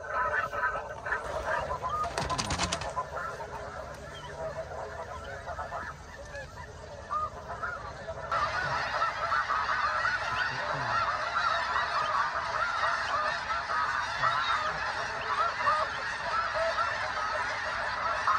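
A large flock of snow geese calling: many overlapping high, short honks forming a continuous chorus, which gets louder about eight seconds in. A few sharp clicks sound about two seconds in.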